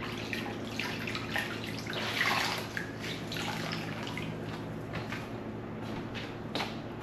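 Water splashing and dripping, uneven and with small knocks, louder about two seconds in.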